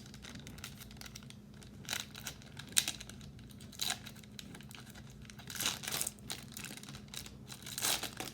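Trading cards being handled and flipped through by hand: a series of short papery swishes and snaps, the sharpest a little under three seconds in, with more clustered near six and eight seconds.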